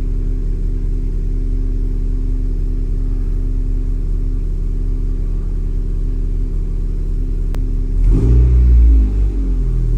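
Honda Civic Type R's turbocharged 2.0-litre four-cylinder idling steadily, with a single click shortly before a quick throttle blip about eight seconds in that rises and falls back to idle within about a second and a half. The engine now sits in a stiffer aftermarket rear engine mount, which the owner says makes the whole car vibrate more and seem a little louder.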